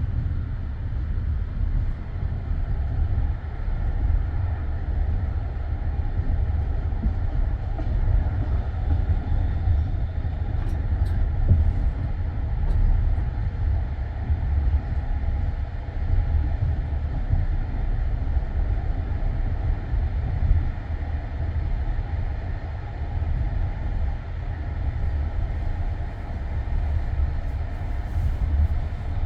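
Passenger railway carriage rolling on the rails, a steady low rumble with a few faint clicks, heard from inside the car at the window.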